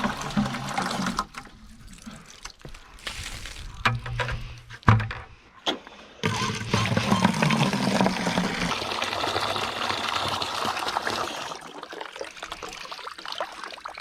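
Water running, in spells that start and stop, with a low hum under it and a few clicks.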